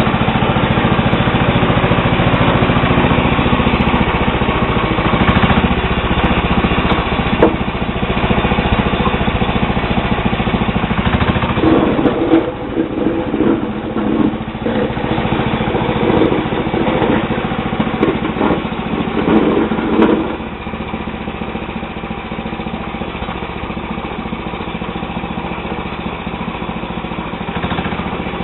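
Sears Suburban SS12 garden tractor's 12 hp Tecumseh HH120 single-cylinder engine running steadily while plowing snow. Its note turns uneven for several seconds around the middle, then settles slightly quieter.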